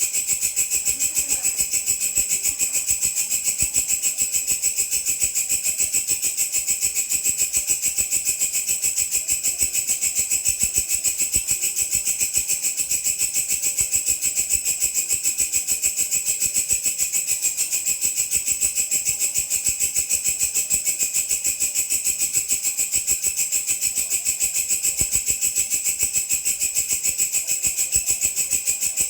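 Singing grasshopper (belalang) stridulating: a continuous, high-pitched, rapidly and evenly pulsing trill that keeps going without a break.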